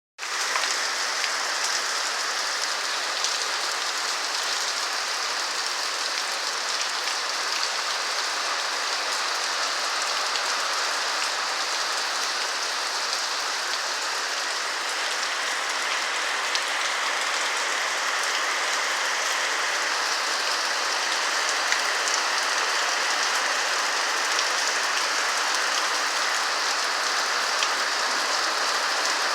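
Steady rain falling on a roof: a dense, even patter with scattered single drops ticking through it.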